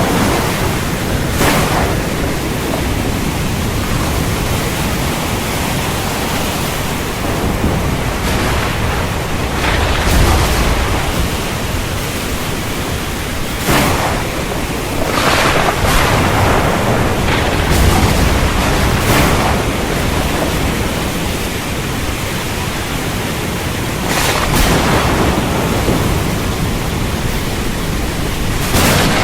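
Heavy rain falling steadily, with thunder rumbling and cracking now and then.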